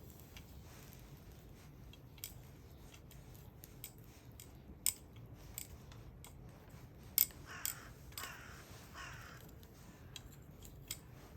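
Wood campfire crackling: irregular sharp pops and snaps every second or so over a low, steady background.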